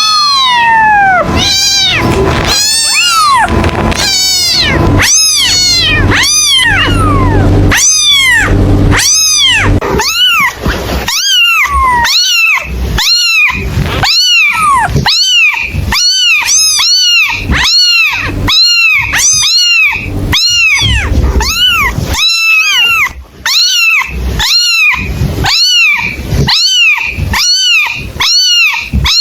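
Kittens mewing over and over, each short call rising and falling in pitch. The calls overlap over a low steady hum for the first third, then come one after another about twice a second.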